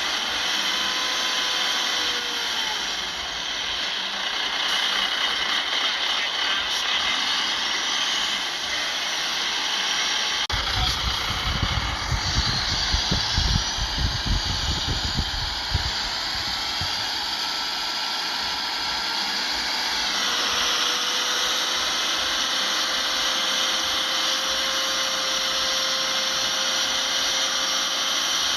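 Shantui bulldozer's diesel engine running under work, with a steady high mechanical whine over it. About ten seconds in comes several seconds of irregular low rumbling, and the pitch shifts slightly about two-thirds of the way through.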